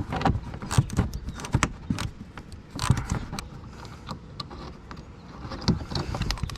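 Irregular clicks, clinks and knocks of a socket wrench and loose fasteners as a 10 mm bolt under the car is worked loose by hand.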